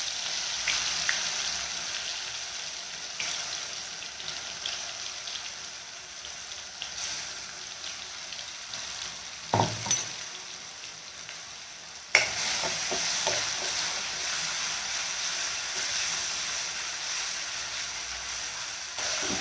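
Coarse onion, ginger and garlic paste sizzling in hot oil and ghee in a kadai, stirred with a spoon that scrapes the pan now and then. A knock about ten seconds in and a sharp clank about two seconds later, after which the sizzling is louder.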